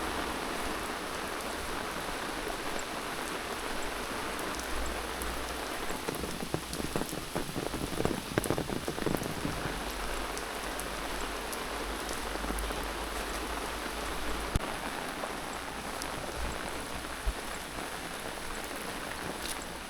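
Steady rain falling, a dense patter of drops on surfaces, with a louder spell of close crackling and patter from about six to nine seconds in.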